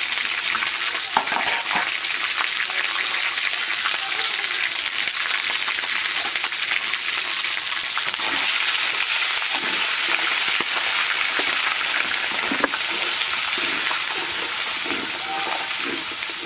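Food frying and sizzling in hot oil in a cooking pot, a steady hiss, while it is stirred with short scrapes and knocks against the pot. There is a sharper knock about a second in and another about twelve seconds in.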